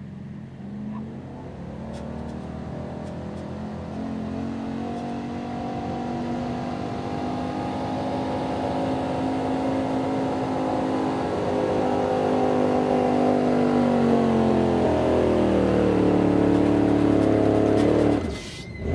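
Pulling truck's engine at full throttle dragging the weight sled, growing steadily louder. About a second in, its pitch climbs, then it holds high. Over the last few seconds the pitch sags as the engine is pulled down under the building load, and the sound cuts off abruptly near the end as the run ends.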